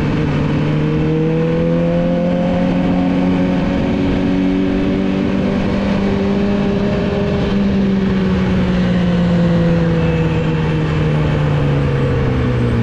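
Yamaha R6 inline-four sport-bike engine through a Two Brothers full exhaust system, pulling at moderate revs under way with a steady rush of wind. The pitch climbs slowly, steps up about halfway through, then eases off and drops near the end as the throttle closes.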